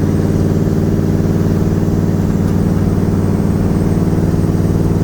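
Twin-turbo 5.6-litre VK56 V8 in a Nissan 300ZX, heard from inside the cabin, running at a steady cruise. It makes an even drone with no change in revs.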